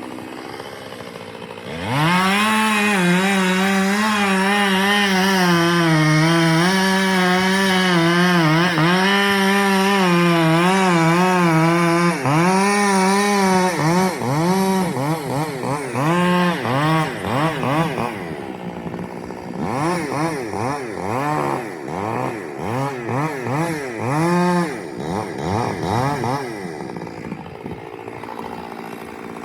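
Chainsaw engine opening up about two seconds in and running at full throttle under load, its pitch wavering as it cuts for about ten seconds. It is then revved in a series of short bursts, rising and falling, before dropping back to a lower idle near the end.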